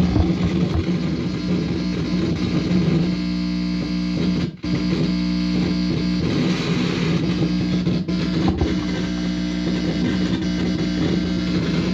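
Guitar amplifier fed by a hand-held guitar cable, giving a loud steady hum with a crackling buzz on top. It cuts out briefly about four and a half seconds in, and again twice around eight seconds.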